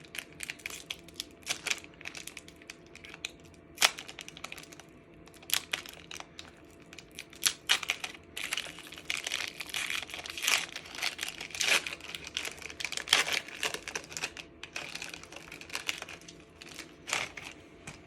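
Foil wrapper of a Pokémon TCG Sword & Shield Battle Styles booster pack being torn open and handled, with irregular crinkling rustles and a few sharp crackles.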